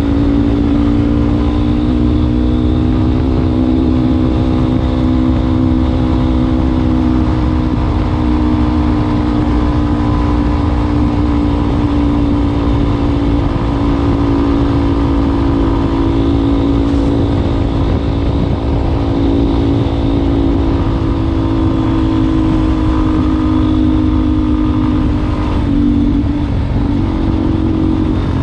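Yamaha Ténéré 250's single-cylinder four-stroke engine running steadily through an aftermarket WACS exhaust tip, its pitch drifting slowly. The pitch shifts briefly near the end.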